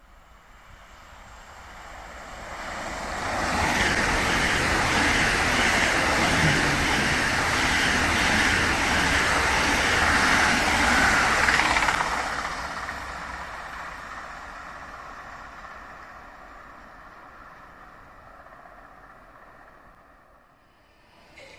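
ICE high-speed electric train passing at speed: the rushing noise of wheels on rail and air builds over the first few seconds, stays loud for about eight seconds as the cars go by, then fades slowly away.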